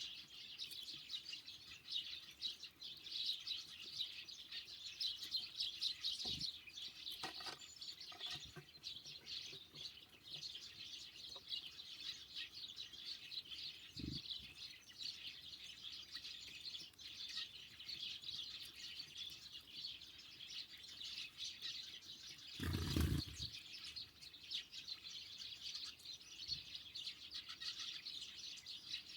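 Small songbirds at a winter feeder chirping and twittering continuously in many short, high notes. A few soft thumps come early on and near the middle, and a brief loud rush about three-quarters of the way through.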